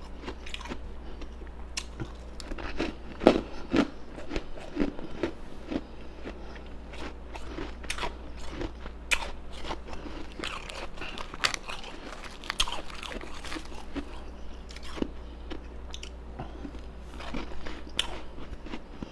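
Close-miked biting and chewing of ice: irregular crunches and crackles that keep coming, the loudest bite about three seconds in.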